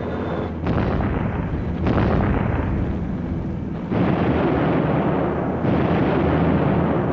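A run of heavy explosions, about four in a row, each starting suddenly and rumbling on into the next without a break.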